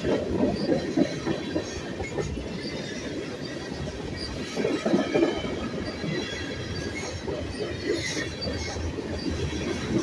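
Freight train's tank cars rolling past close by: a steady rumble and clatter of steel wheels on the rails, louder for a moment about five seconds in, with a faint high wheel squeal over it.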